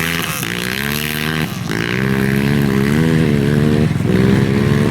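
Rally car's engine accelerating hard from a standing start off the stage start line. Its pitch climbs, then drops sharply at upshifts about one and a half seconds in and near four seconds.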